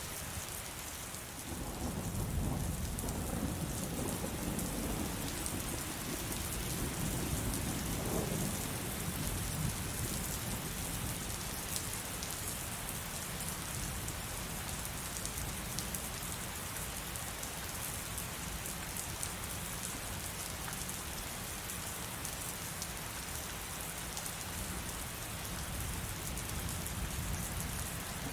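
Heavy rain falling steadily, with a long roll of thunder that rumbles in about a second and a half in and dies away after several seconds, and a fainter rumble near the end.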